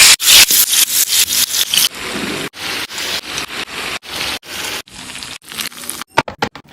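Food sizzling and spitting in hot oil in a pan, heard as a run of short clips cut abruptly one after another, each a second or less long.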